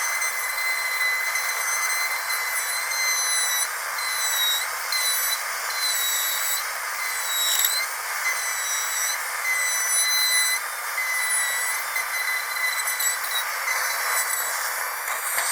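Dental drill whining steadily at a high pitch over a hiss of air, its pitch dipping briefly a couple of times. Near the end the hiss grows louder.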